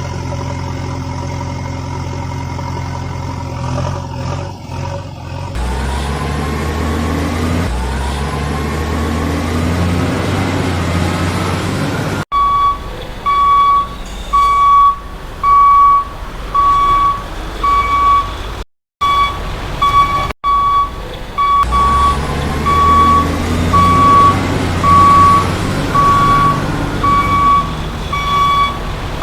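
Heavy truck engine sound effect running, with some revving, then a reversing alarm starting about twelve seconds in: a high, steady beep repeating roughly once a second over the engine hum, briefly cutting out once near the middle.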